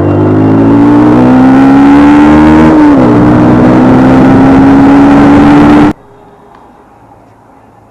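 Sport motorcycle engine accelerating hard, its pitch climbing, dropping sharply once about three seconds in at a gear change, then climbing again through the next gear. The engine sound cuts off abruptly about six seconds in, leaving a faint low hum.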